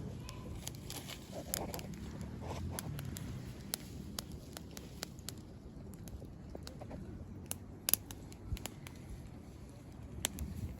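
Small campfire burning, with irregular scattered crackles and sharp pops.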